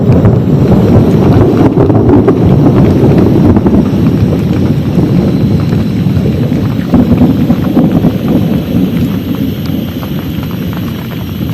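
Heavy rain falling steadily in a storm, with dense small drop hits over a low wind rumble on the microphone, easing slightly near the end.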